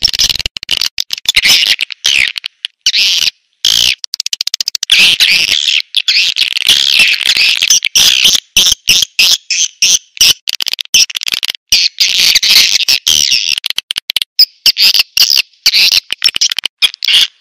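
Swiftlet lure call (suara tarik walet): a dense chorus of high twittering chirps and rapid clicking trills, chopped by sudden brief gaps. It is the kind of recording played to draw swiftlets into nesting houses.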